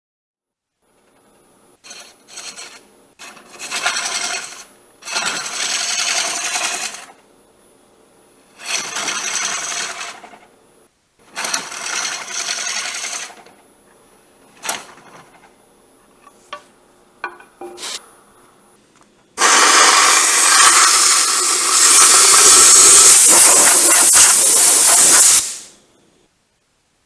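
Wood lathe turning a wet sweet gum birdhouse blank while a hollowing tool cuts the inside in four short passes, each a broad scraping rush, with a faint steady high whine and a few sharp clicks between them. About two-thirds of the way through, a much louder continuous cutting noise runs for about six seconds and then stops abruptly.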